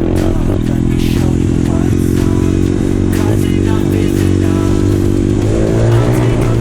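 Pit bike's four-stroke engine running at a fairly steady speed, with the revs shifting a little near the end.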